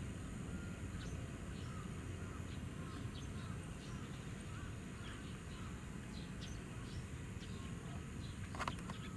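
Faint bird calls over a steady low outdoor rumble: short, soft chirps scattered throughout, and a louder, harsher call near the end.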